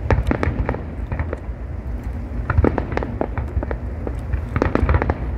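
Fireworks display: distant shells bursting, with a rapid, irregular run of cracks and bangs over a low rumble, thickest in clusters near the middle and near the end.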